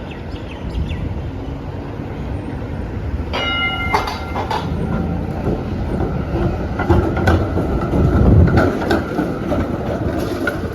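A Melbourne tram passing close by: a low rumble that builds to its loudest about eight seconds in, with the wheels clacking over rail joints. A short steady ringing tone sounds about three seconds in.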